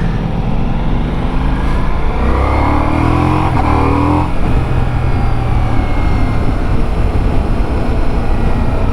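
Ducati Multistrada V4S's V4 engine pulling the bike along at road speed, over a steady rush of wind. About two seconds in the revs climb for a couple of seconds as it accelerates, then fall back and hold steady.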